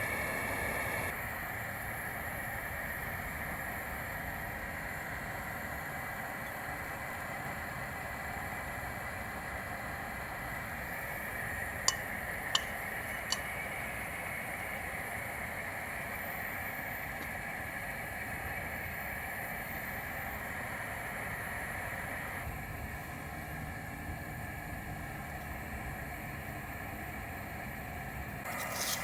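Steady vehicle rumble, like a passing train or city traffic. Three sharp pops come close together a little under halfway through, like a campfire crackling.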